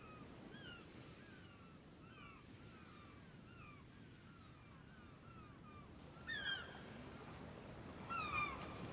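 Birds calling over and over in short downward-sliding notes, with two louder calls about six and eight seconds in, over a faint low wash of water and wind.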